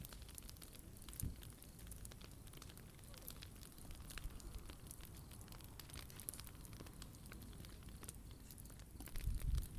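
Wood fire crackling softly in a POMOLY T-Brick Ultra fire box, with scattered small snaps and pops. A brief low rumble rises near the end.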